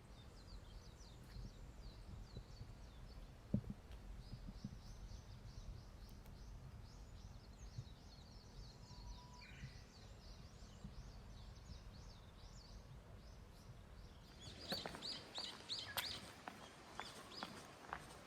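Small birds chirping in quick repeated twittering runs, growing louder and busier near the end, over a low steady rumble, with a single knock a few seconds in.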